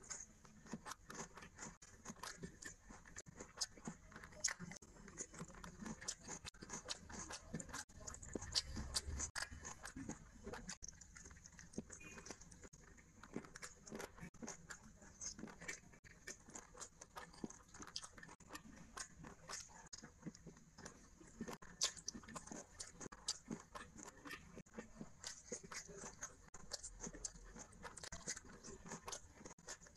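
Close-miked eating sounds of a person eating rice and curry by hand: chewing, lip-smacking and crunching bites of raw onion, heard as a dense run of short wet clicks.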